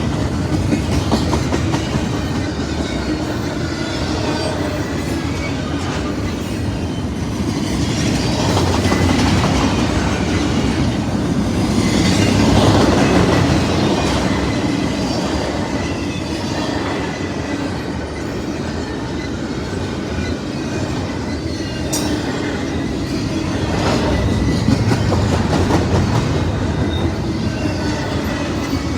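Freight train cars rolling past: a steady rumble with the clickety-clack of wheels over rail joints, swelling louder around the middle.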